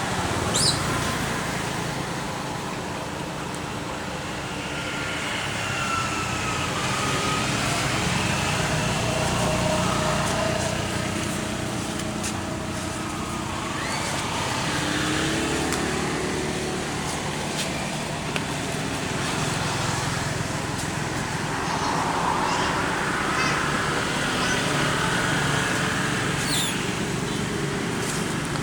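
Steady outdoor traffic noise, with faint distant voices.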